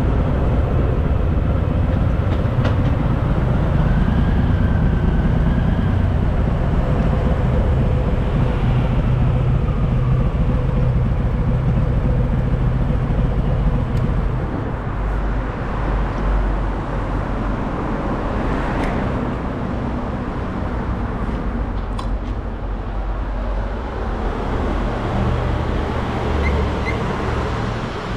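Harley-Davidson Fat Boy's V-twin engine running while riding, with wind and road noise over it; the engine sound drops a little about halfway through.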